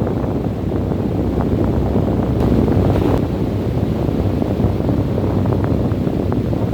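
Strong wind blowing steadily, a deep, low rushing sound, with a brief hissier gust about three seconds in.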